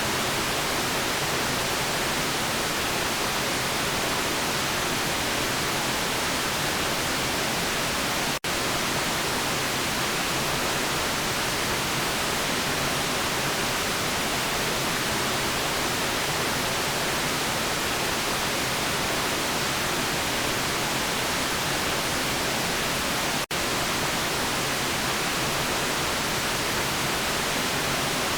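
Steady white noise, an even hiss with no tones or rhythm, with two momentary dropouts, about eight seconds in and again near the end.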